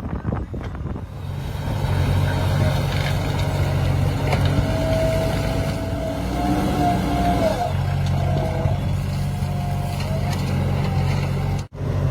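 A heavy diesel engine running steadily, with a higher wavering whine over it through the middle. The sound cuts out for an instant near the end.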